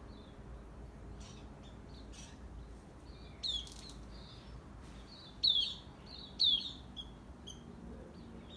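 Small birds chirping: a string of short, high chirps, with two louder downward-sweeping calls about five and a half and six and a half seconds in.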